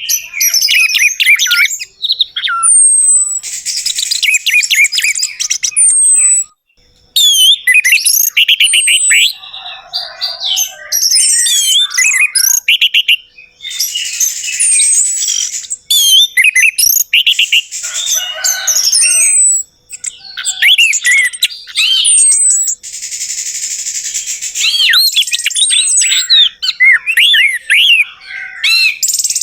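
Orange-headed thrush (anis merah) singing a fast, varied song of sweeping whistled notes and scratchy chattering phrases, in bursts broken by brief pauses.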